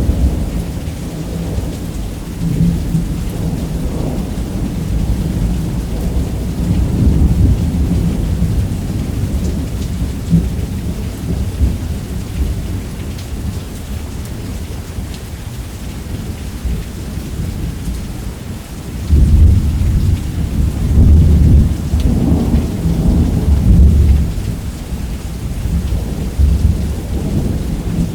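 Thunderstorm: steady heavy rain with rolling thunder rumbling throughout, a louder roll of thunder breaking about two-thirds of the way through and rumbling on for several seconds.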